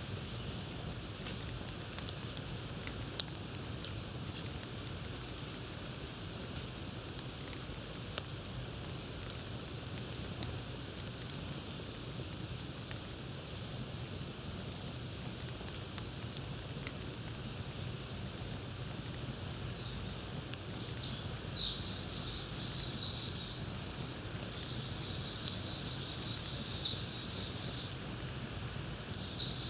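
Campfire crackling steadily with frequent sharp pops. About two-thirds of the way through a songbird joins in with a few quick falling whistles and a fast high trill.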